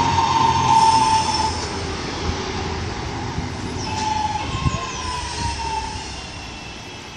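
Class 323 electric multiple unit pulling into the platform and slowing to a stop. A squeal comes and goes twice over the rumble of the train, and the sound fades as it comes to rest.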